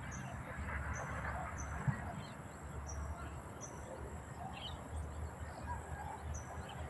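Many small birds chirping, with a short high note repeating about once a second among scattered calls, over a steady low rumble.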